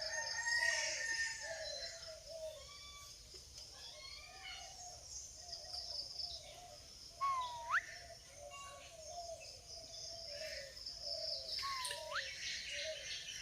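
Parrot chattering softly with a run of low warbling notes and faint high chirps, broken twice by a short whistle that dips and then sweeps sharply upward, about halfway through and again near the end.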